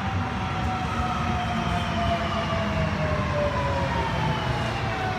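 Sydney Trains Millennium electric train slowing into the platform: a low rumble with a whine that slowly falls in pitch.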